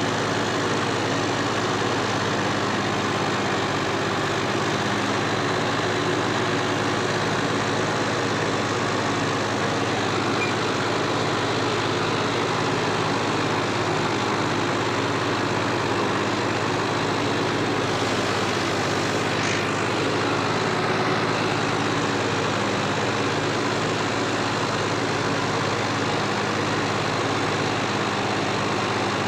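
John Deere 5405 tractor's diesel engine running steadily while it drives a super seeder, an even drone that holds level throughout.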